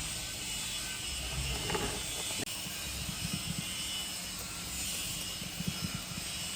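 A machine-shop cutting machine running steadily with a hiss and a low rumble, with irregular low knocks through the middle.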